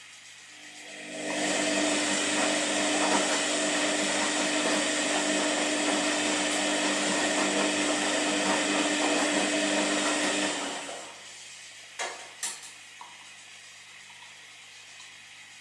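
Washing machine running a tumble: the motor turns the drum with a steady hum and churning noise for about ten seconds, then winds down and stops, followed by a couple of short clicks and a faint hum.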